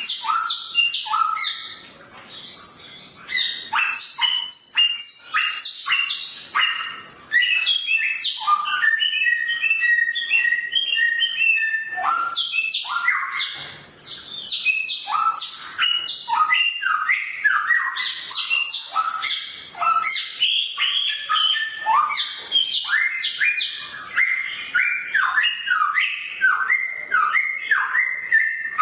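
A samyong songbird singing a long, fast, varied song of sharp whistled notes and trills, the fierce 'pedas' voice that bird keepers prize, with a held steady whistle partway through.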